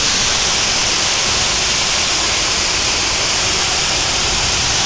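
Steady rushing roar of Cachoeira do Buracão, a high waterfall pouring into a canyon, heard from its top, with no rise or fall.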